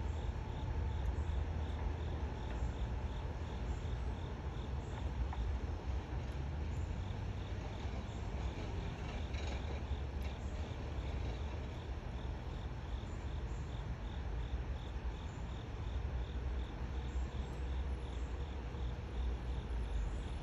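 Insects chirping in a steady, regular rhythm over a continuous low rumble.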